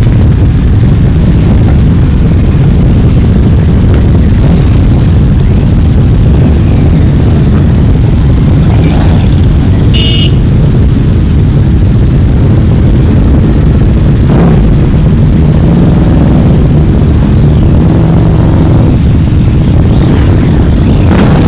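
A group of motorcycles running and passing as one loud, dense rumble, with engines revving up now and then. A short, high-pitched beep comes about halfway through.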